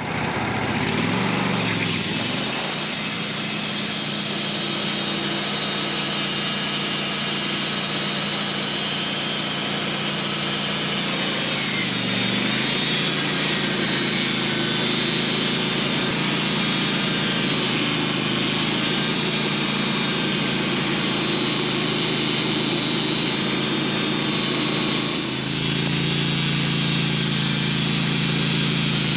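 Portable band sawmill's engine revs up about a second in, then runs steadily under a high hiss. Its pitch dips briefly about twelve seconds in and shifts again a few seconds before the end.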